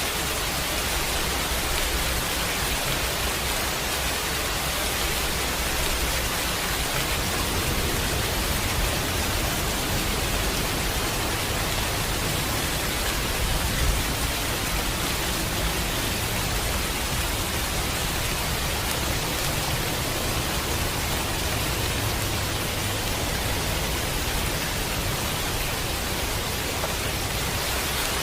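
Steady heavy rain with a low rumble of thunder underneath, which swells from about a quarter of the way in and peaks briefly about halfway.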